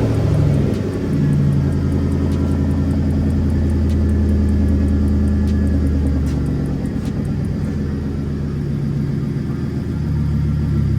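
Car engine running at a fast idle just after starting, a steady low drone whose pitch shifts a little now and then as it settles. It is being left to idle down by itself after an engine overhaul, with a miss suspected.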